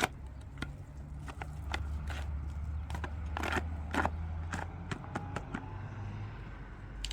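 Scattered sharp knocks and scraping over a steady low hum.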